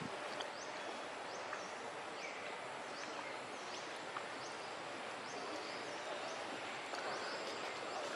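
Outdoor ambience: a steady hiss with short, high chirps repeating roughly once a second at irregular spacing.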